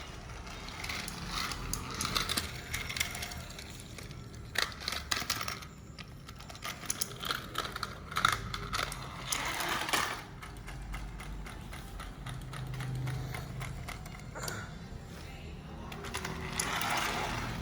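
Battery-powered TrackMaster Turbo Percy toy engine running on plastic track: a small geared motor whirring with rapid clicking and clattering over the track. The sound swells and fades as the engine travels around the layout.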